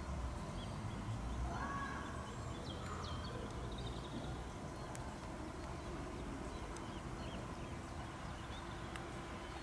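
Faint low rumble of a train approaching in the distance, with birds chirping.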